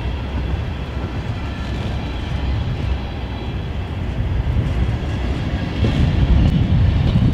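Freight train's covered hopper and tank cars rolling past: a steady rumble of steel wheels on rail that grows louder about six seconds in.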